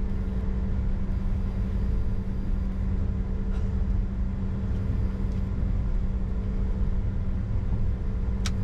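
Steady cockpit noise of a Bombardier Challenger 605 taxiing: its twin GE CF34 turbofans at idle give a low rumble under a constant hum. There is a short click near the end.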